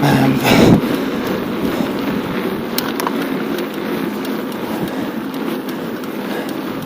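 Steady rushing noise from riding a bicycle at speed: wind over the camera's microphone and the tyres rolling. A louder gust about half a second in.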